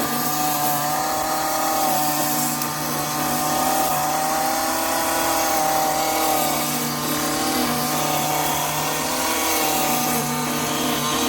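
Small petrol engine running steadily at high speed, its pitch wavering slightly.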